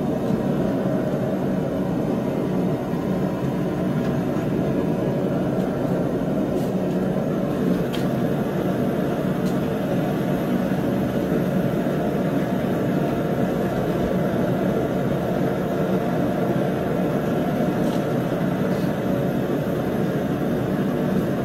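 Forge running with a steady, even rushing noise, with a couple of faint metallic ticks about eight seconds in and again near the end.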